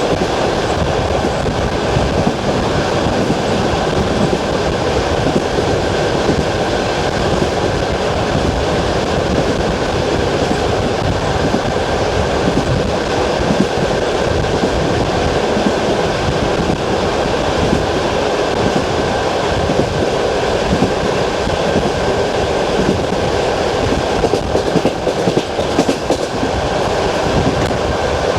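Passenger train running on jointed track, heard from aboard: the wheels clatter over the rail joints above a steady rolling rumble, with a few sharper knocks near the end.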